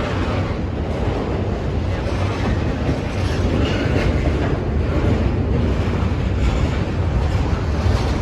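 Freight cars of a long intermodal train rolling past: a steady rumble of steel wheels on the rails.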